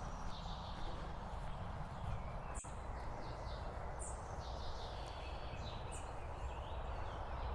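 Small birds chirping and calling several times over a steady low rumble of distant motorway traffic, with a single click a little over two seconds in.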